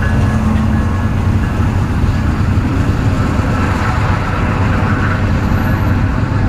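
Union Pacific freight train passing close by, a loud, steady rumble of diesel locomotive engines and rolling wheels, with an engine hum that fades in the first second or two.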